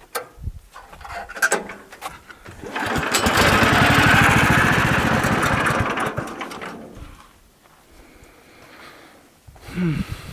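Portable sawmill running, a fast-pulsing mechanical noise that starts about three seconds in, holds for a few seconds and dies away by about seven seconds. A few scattered knocks come before it.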